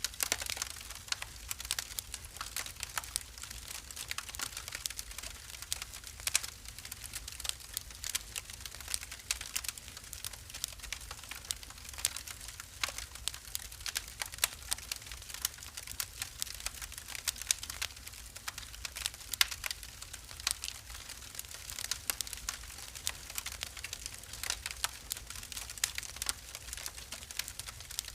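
Wood fire in a fireplace crackling: dense, irregular snaps and pops over a low steady rumble.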